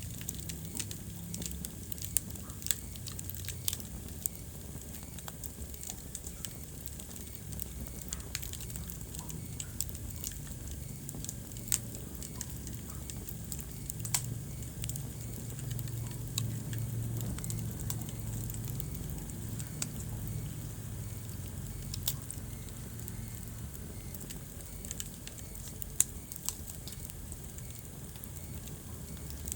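Wood fire burning in a fireplace, crackling steadily over a low rumble, with a handful of sharper, louder pops: one about two seconds in, a few more around twelve and twenty-two seconds, and one near the end.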